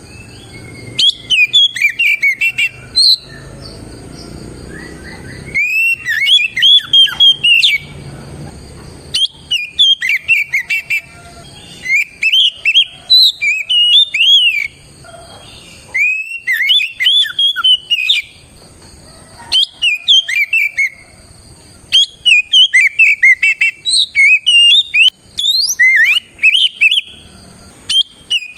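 Oriental magpie-robin (kacer) in full song: phrase after phrase of loud, rapid whistled notes that slide up and down, each phrase lasting a couple of seconds with short pauses between.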